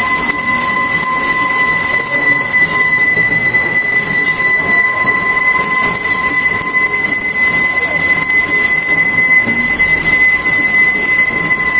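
Electric arc welding for hard-facing: a steady hiss with a continuous high-pitched whine held at one pitch.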